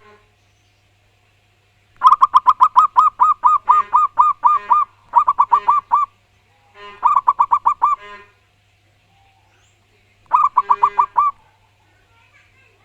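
Zebra dove (perkutut) cooing loudly in four bursts of quick, evenly spaced notes, the first and longest lasting about three seconds, with short pauses between the bursts.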